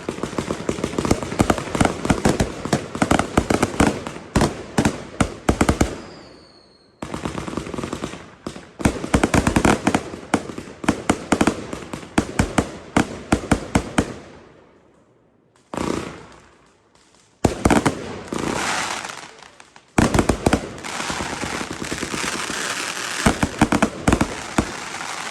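Fireworks going off in rapid volleys of bangs and crackling, in several bursts with short gaps between them, with a brief whistle about six seconds in.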